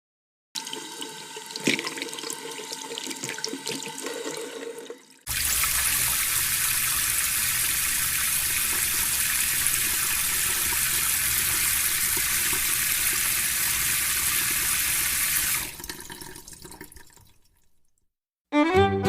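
Water rushing steadily for about ten seconds, starting suddenly and then fading out. Before it comes a quieter sound with a faint steady whine, and music starts near the end.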